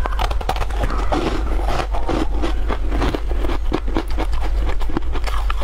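Close-up crunching and chewing of a tartary buckwheat snowflake crisp, a dense run of crisp crackles and mouth sounds, over a steady low hum.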